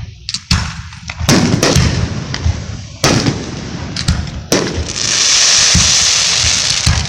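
Consumer fireworks going off in a rapid series of sharp bangs. About five seconds in, a steady hiss lasts around two seconds before more bangs.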